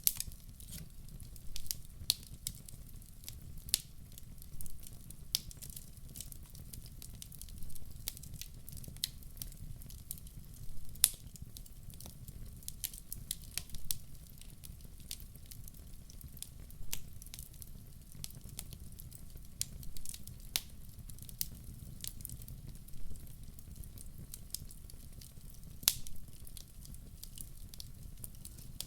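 Wood logs burning in a fireplace: irregular crackles and sharp pops over a low, steady rumble of the flames, with one louder pop about eleven seconds in.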